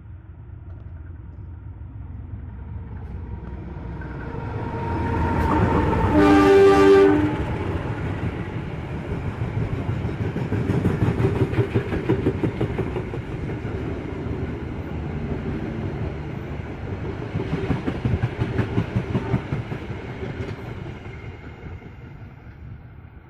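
Diesel-hauled train approaching and sounding its horn once, briefly, about six seconds in. It then passes with wheels clattering over the rails, and the sound fades near the end.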